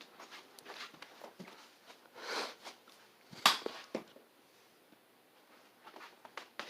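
Quiet room with faint handling rustles, then a sharp knock about three and a half seconds in and a lighter knock half a second later.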